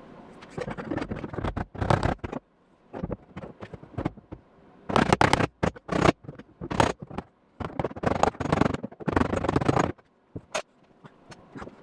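Tack welding on a car's sheet-metal quarter panel: a run of short welding bursts, some a fraction of a second and others a second or two, with brief pauses between them.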